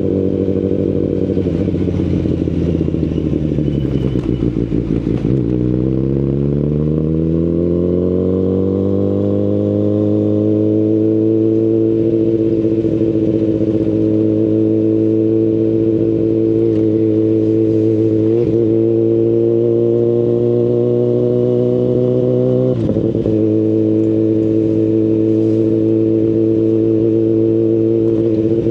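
Kawasaki Ninja ZX-10RR inline-four under way through an Akrapovic full-system carbon exhaust. The engine note falls for a few seconds, then climbs back up and holds a steady cruising pitch, with two brief dips in pitch near the end.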